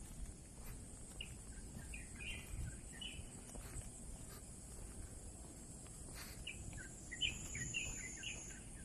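Songbird chirping in two bursts of quick, short notes, the second busier than the first, over steady outdoor background noise with a faint high hiss.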